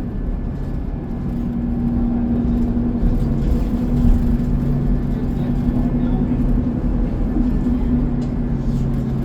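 Interior of a moving city bus: the engine's steady drone with road rumble, a low hum holding one pitch throughout.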